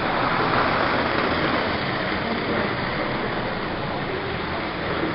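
Steady background din of a busy exhibition hall: many visitors talking indistinctly at once, blurred into an even wash with no single voice standing out.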